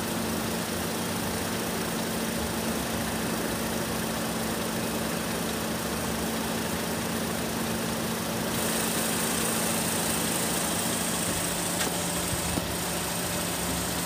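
Holden Commodore 3.6-litre V6 engine idling steadily, with no revving.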